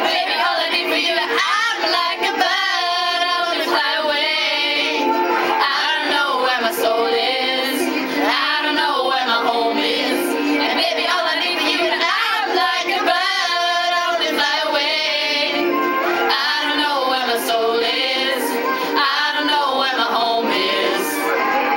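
A group of girls singing a pop melody together, the voices sliding up and down through long sung phrases.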